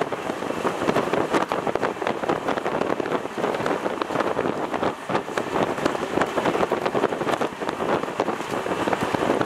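Train running at speed, heard from on board: a steady rush of wind and wheels on the rails, with many quick clicks and rattles all through.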